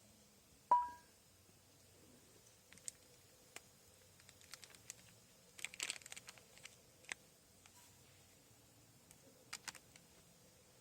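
A single sharp clink with a brief ringing tone, then scattered small clicks, crackles and rustles of gear being handled.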